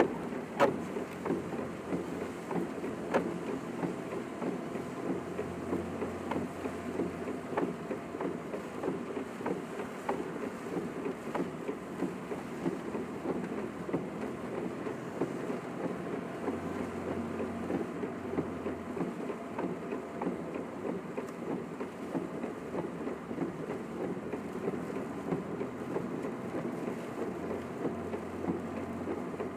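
Car driving in typhoon wind and rain, heard from inside the cabin: a steady rush of road and wind noise with scattered light ticks.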